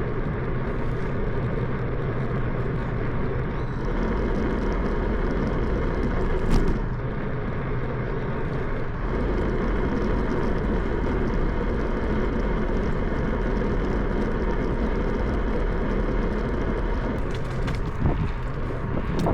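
Steady rushing wind and rolling noise from a bicycle ride, heard on the riding camera's microphone, with two brief knocks.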